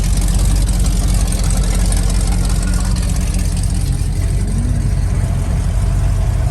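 Car engine running at a steady low idle, a deep, even rumble with no revving.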